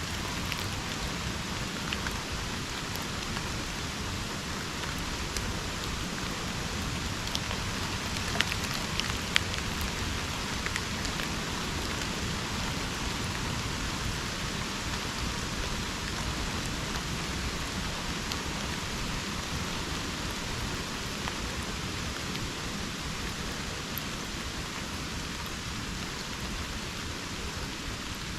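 Steady rain falling in a subtropical rainforest, a constant even hiss, with a few sharper ticks of nearby drops about eight to nine seconds in.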